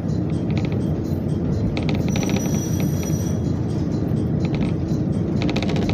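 Interior running noise of a local diesel train rolling along the track: a steady low rumble, with a brief high squeal about two seconds in that lasts a little over a second.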